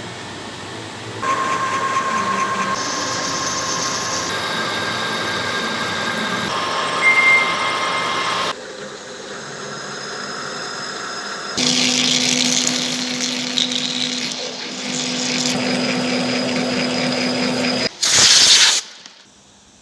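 Manual machine tool running and cutting metal, its hum and cutting noise changing abruptly several times. A short, loud hiss comes near the end.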